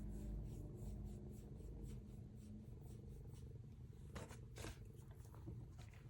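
A pet cat purring low and steadily close to the microphone, with light scratching of a pen on paper and two sharper scratches about four seconds in.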